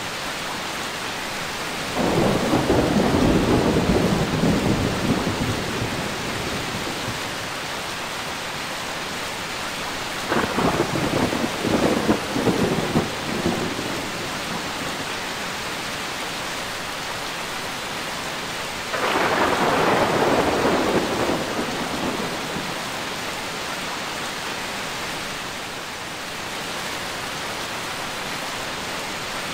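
Steady heavy rain with three claps of thunder, each starting suddenly and rumbling away over a few seconds; the middle one crackles.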